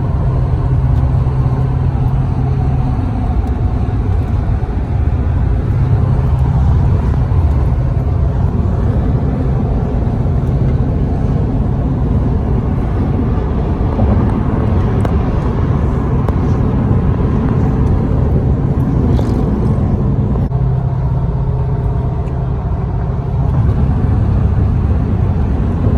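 A large vehicle running close by: a steady low rumble with an engine hum, easing briefly a few seconds before the end.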